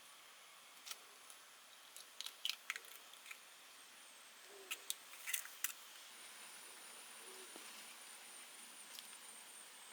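Scattered light clicks and taps, with two faint low hoots of an owl in the background. A faint steady high whine comes in about halfway through.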